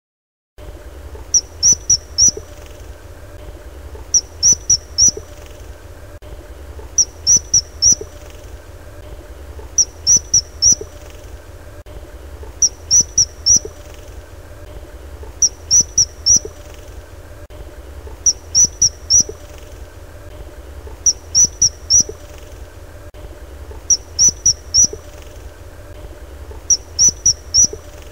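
A small animal's short, high-pitched chirps in quick groups of three or four, repeating evenly about every three seconds, over a steady low hum.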